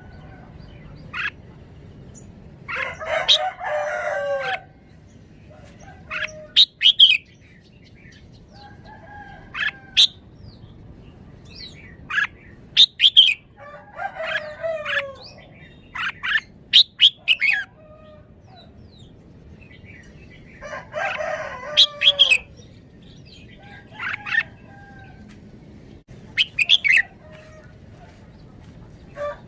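Red-whiskered bulbul singing: clusters of short, bright whistled notes in phrases, broken by longer, harsher calls of a second or two that come roughly every six seconds.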